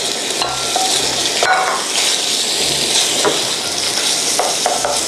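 Minced chicken sizzling in hot vegetable oil in a nonstick frying pan, with a steady hiss. Irregular scrapes and taps of a wooden spatula break up and stir the meat.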